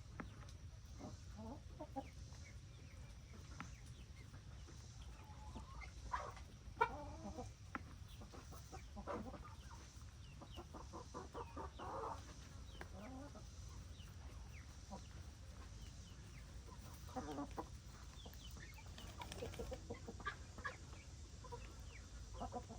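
Chickens clucking, with scattered short calls and a quick run of rapid calls about ten seconds in, over a low steady rumble.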